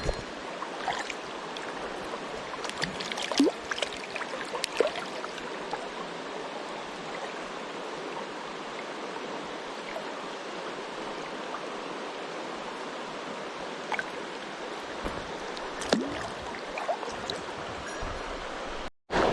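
Mountain stream water rushing steadily, with a few short clicks and knocks now and then, and a brief drop-out just before the end.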